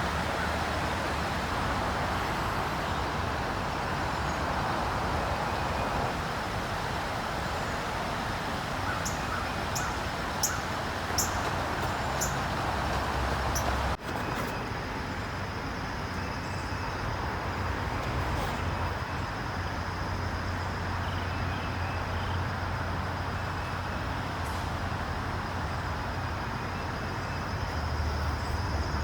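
Steady rush of road traffic passing, with a few short sharp ticks about ten seconds in and an abrupt change in the sound about halfway through.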